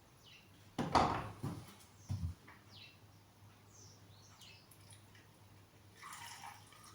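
Quiet workshop room tone with a steady low hum, a loud clatter about a second in and a thump about two seconds in. Faint short chirps, like birds, come through in between.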